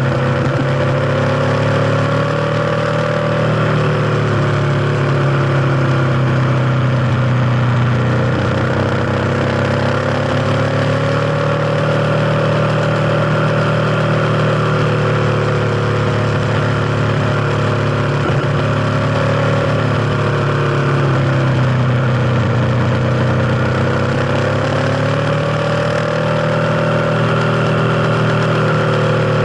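Kawasaki KLX250's single-cylinder four-stroke engine running while the bike is ridden, its pitch dipping and climbing again several times with the throttle.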